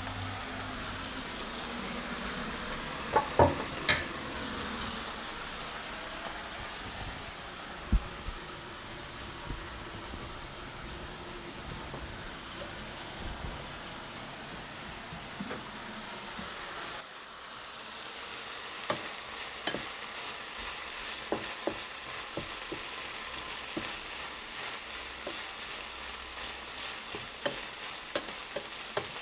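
Food sizzling in a hot frying pan for fajitas, stirred with a utensil. There are a few sharp knocks on the pan early on and frequent small clicks and scrapes later. The sizzle drops for a moment past the middle, then carries on.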